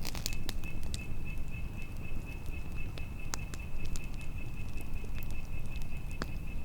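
Campfire crackling, with irregular sharp pops over a low rumble of wind. A steady, high-pitched trill runs in the background.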